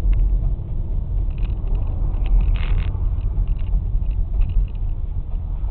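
Steady low rumble of a car driving, with engine and road noise, a few faint clicks and a short hiss about two and a half seconds in.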